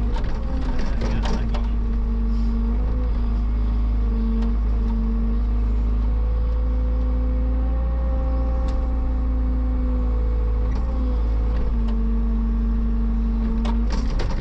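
Engine of a heavy machine running steadily under work, its pitch shifting a little, with a few sharp clanks about a second in and again near the end.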